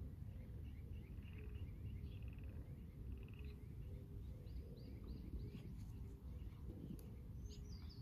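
Small birds chirping and twittering, with a quick run of chirps midway and a short trill near the end, over a steady low background rumble. A single click sounds near the end.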